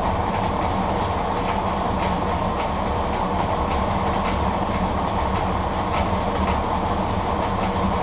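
Century-old W.F. & J. Barnes No. 13 metal lathe running under power through a three-speed car-transmission drive: a steady mechanical drone with faint ticks about twice a second. The machine vibrates a fair bit, from a twisted drive belt rolling over on itself and a wobbling pulley.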